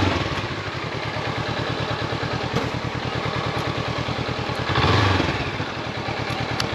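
Honda CB500X's parallel-twin engine idling with an even pulse, rising in a short rev about five seconds in, then cutting out right at the end.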